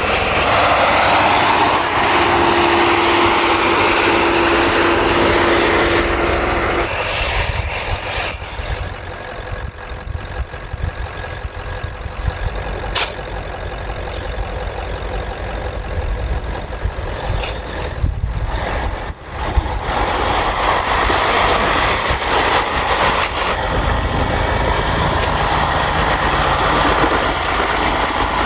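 Heavy truck engine running under loud, steady noise. The sound changes abruptly about seven seconds in, turns quieter with a few sharp clicks, then grows loud again after about twenty seconds.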